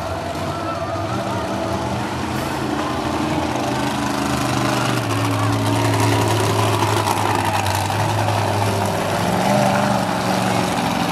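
Monster truck engine revving hard: the revs climb over the first few seconds, are held high and steady for several seconds from about five seconds in, then ease off near the end.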